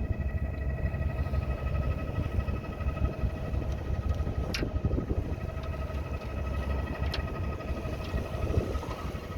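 A motor running steadily: a constant whine over a low rumble, with two sharp clicks about four and a half and seven seconds in.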